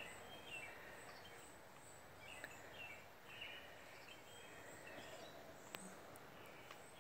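Quiet outdoor ambience: small birds chirping in short repeated phrases, with a couple of faint clicks.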